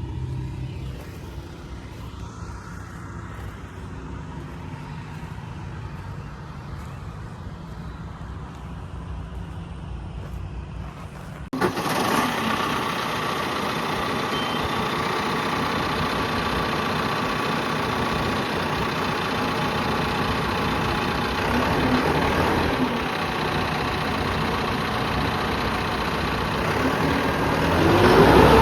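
John Deere 5095M tractor's diesel engine idling steadily. About eleven seconds in the sound jumps abruptly and is much louder and closer. Near the end the engine revs up and back down.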